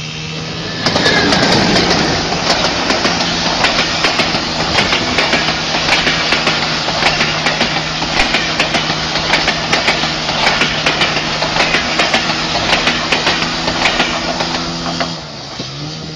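Diesel train passing close through floodwater on the track: loud rushing spray and a rapid, irregular clatter of wheels over a steady low engine drone. The rushing comes in about a second in and falls away about a second before the end.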